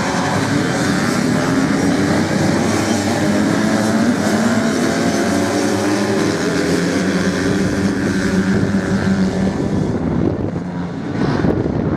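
Several racing motorcycle engines revving hard, their pitch rising and falling as they race on sand, fading about ten seconds in.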